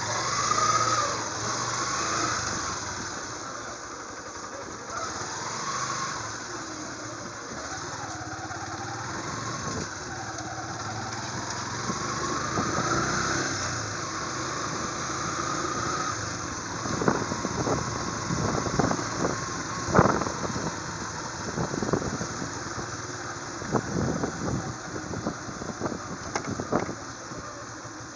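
Motorcycle engine running while being ridden, its pitch rising and falling with the throttle. A series of sharp knocks comes through in the second half.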